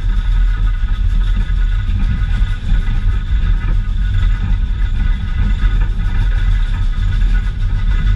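Heavy, steady rumble of a passenger train rolling along the track, heard from an open-sided car, with steady high-pitched tones running above it.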